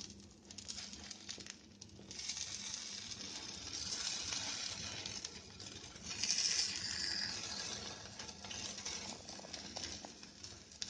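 Spice-coated brinjal slices sizzling as they shallow-fry in a little hot oil, while a wooden spatula scrapes and turns them in the pan. The sizzle grows louder about two seconds in.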